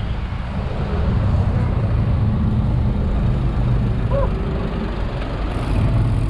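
Low, steady rumble of wind buffeting the microphone of a camera carried on a moving bicycle, mixed with road traffic noise.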